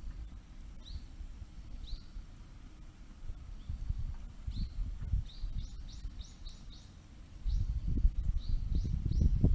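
Small birds chirping: short, high, rising-and-falling calls, some in quick runs of four or five. Underneath is a low rumbling noise that grows louder near the end.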